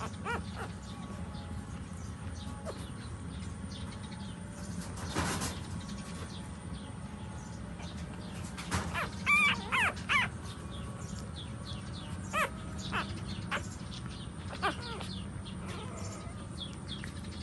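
Short, high-pitched animal cries over a steady low hum: four in a quick cluster about halfway through, then a few single ones later.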